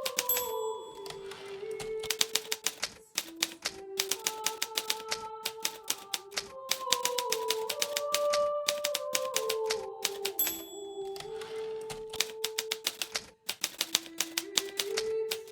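Hermes Baby portable typewriter being typed on: quick runs of key strikes with a couple of short pauses. Soft melodic background music plays underneath.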